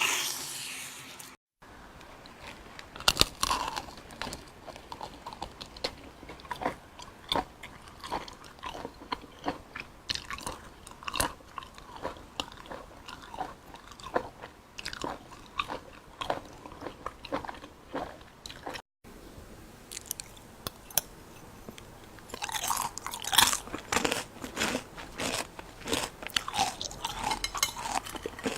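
A person eating close to the microphone: wet chewing, biting and crunching with many short sharp clicks. It breaks off to silence twice, about 1.5 s and 19 s in, and the crunching grows denser and louder about two-thirds of the way through.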